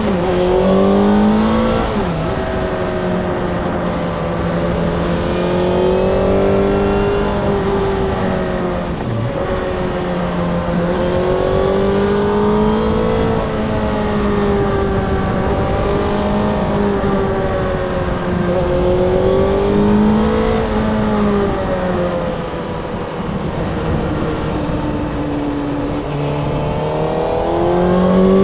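Honda CB1000R SC80's inline-four engine running through its stock exhaust. The engine note rises and falls in long, gentle swells as the throttle opens and closes, with brief dips in pitch about two seconds and nine seconds in.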